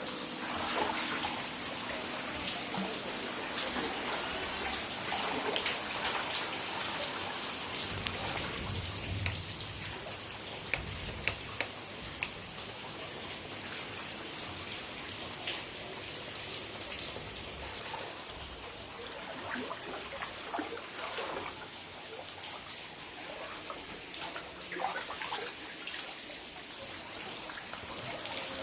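Heavy rain falling steadily, with many small drop impacts throughout.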